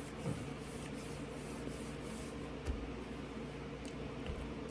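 Steady low room hum with an even hiss and a couple of faint clicks or rustles.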